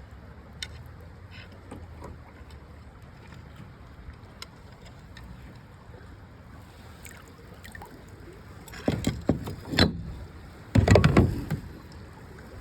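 Quiet moving creek water, then two loud bouts of splashing and sloshing near the end as a bottle is reached for and lifted out of the shallow water.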